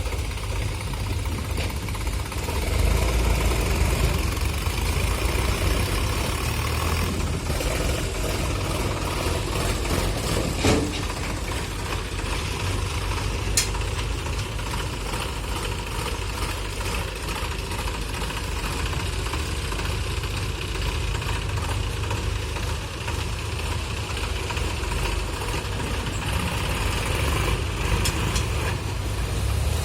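Diesel engine of a tractor or backhoe loader running steadily, with a couple of sharp clicks or knocks about eleven and fourteen seconds in.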